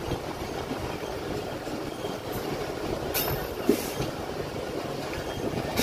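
Moving train heard from an open coach doorway: the steady rumble and rattle of wheels running on the rails, with two sharp knocks about half a second apart a little past three seconds in.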